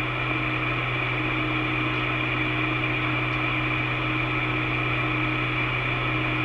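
Steady hiss and low hum of an open two-way radio channel between transmissions, with no voice on it.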